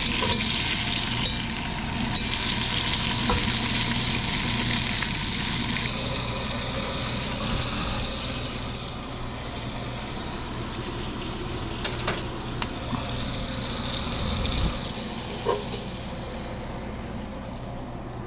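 Thin chicken cutlets frying in hot oil in a pan: a loud sizzle that eases after about six seconds and fades toward the end, with a couple of light clicks along the way.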